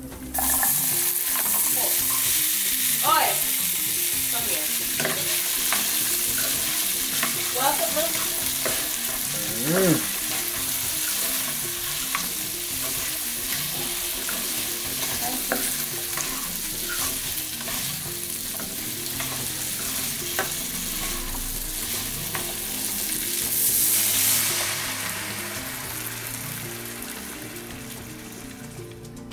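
Chopped vegetables (carrot, potato, onion, okra and hot pepper) sizzling loudly in a frying pan of hot melted butter and stirred with a spatula. The sizzle starts suddenly as they go into the butter, swells once more near the end, then eases off.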